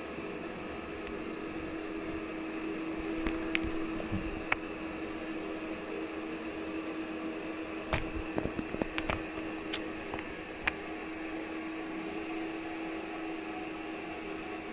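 A steady mechanical hum, like a room fan or appliance, with one constant tone. Scattered light clicks and taps come in two clusters, a few seconds in and again past the middle.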